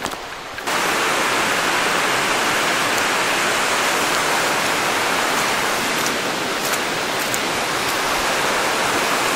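Steady rush of flowing creek water, starting suddenly about a second in.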